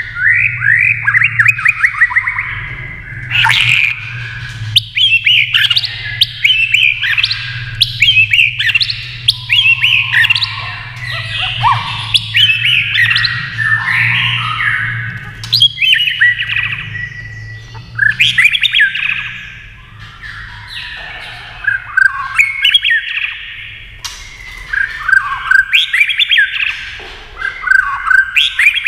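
White-rumped shama singing a long run of varied phrases: clear whistles, quick trills and harsh chattering notes, with short pauses between phrases. A steady low hum lies under the song and fades out about two-thirds of the way through.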